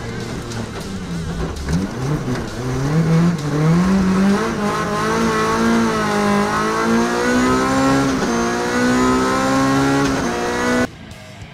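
BMW M3 E30 rally car's four-cylinder engine, heard from inside the cabin, accelerating hard through the gears. The revs climb, drop at a gear change about four and a half seconds in and again about eight seconds in, then climb high before cutting off abruptly near the end.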